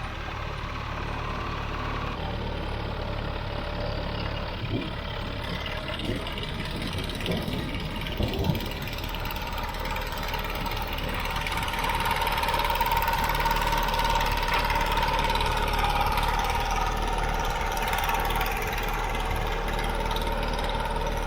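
The Allis-Chalmers HD5 bulldozer's GM 3-71 two-stroke diesel running steadily, growing louder about twelve seconds in. A few sharp knocks sound between about five and eight seconds in.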